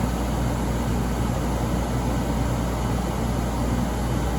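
Late-1980s Emerson Quiet Cool 10,000 BTU window air conditioner running: a steady rush of air with a low hum underneath, its fan drawing air strongly through the intake.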